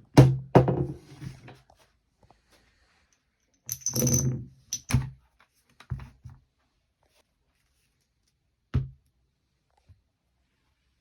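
Hard objects being handled: two sharp knocks at the start, a short rattling clatter about four seconds in, a few lighter knocks, and one more knock near the end, each dying away quickly.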